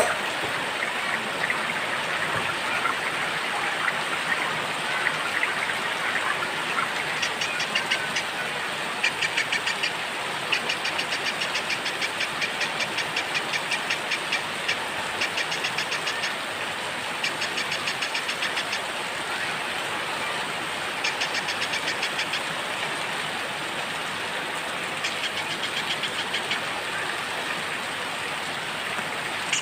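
Steady rain falling, with a small songbird's very rapid trills coming in short bursts every second or two from about seven seconds in, after a few softer chirps.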